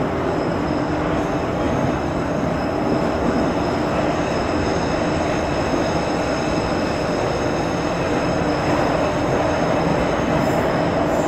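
81-717/714 "Nomernoy" metro train running at speed through a tunnel: a steady, dense rumble of wheels and running gear, with a thin high whine held over it.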